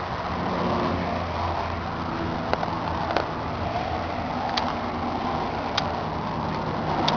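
Massey Ferguson 4253 tractor's diesel engine running steadily at idle, slightly louder in the first couple of seconds, with about five sharp clicks scattered over it.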